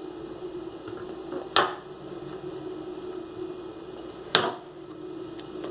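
Two sharp knocks of a kitchen utensil against a dish, one about one and a half seconds in and one about four and a half seconds in, over a steady hum.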